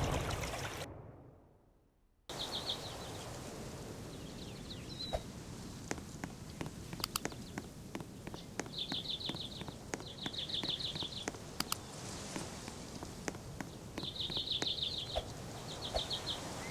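Outdoor background with short, high, rapidly pulsed chirping trills that repeat five times, over scattered light ticks and steps.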